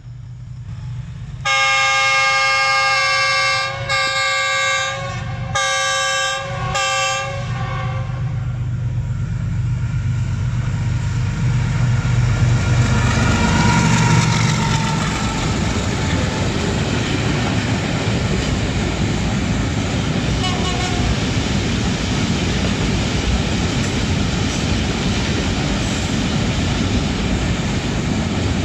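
A Pakistan Railways GEU-40 diesel locomotive sounds its multi-tone horn as it approaches: one long blast, then three shorter ones. Its engine then grows louder and passes close by about a dozen seconds in. The steady rolling rumble of a long container freight train's wagons follows.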